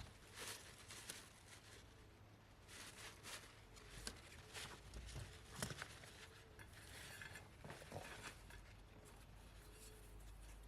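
Near silence with faint, scattered clicks and rustles.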